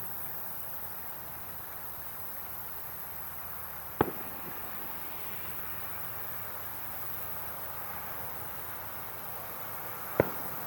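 Two sharp firework bursts bang about six seconds apart, the first about four seconds in and the second near the end, over a steady background hiss.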